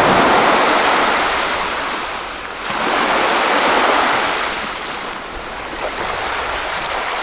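Sea waves washing in and drawing back, a loud rushing that swells and eases about every three seconds.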